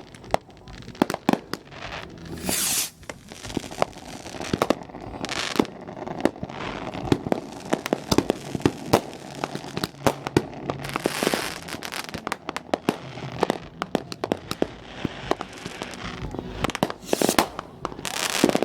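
Consumer fireworks going off all around: rapid crackling and sharp bangs throughout, with a few longer hissing bursts as fountains or rockets fire.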